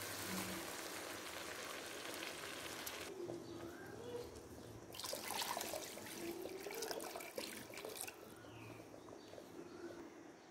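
Water being poured into a pan of semolina roasted in ghee, in two pours with a short pause between them, going quieter near the end.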